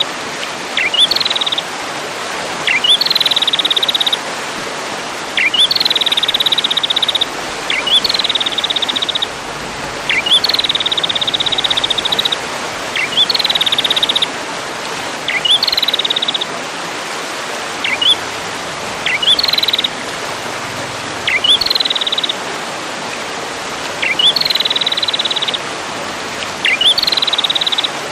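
A songbird's call repeated about every two seconds, each a quick rising note followed by a rapid, buzzy trill held on one high pitch for up to two seconds, over a steady hiss.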